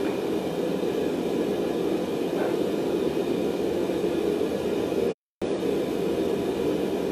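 A blacksmith's forge running with a steady roar while the steel heats. The sound cuts out completely for a moment about five seconds in.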